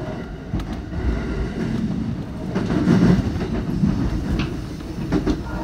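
Electric commuter train running along the rails, heard from inside the front car: a steady low rumble of wheels on track with several sharp clacks as the wheels cross rail joints.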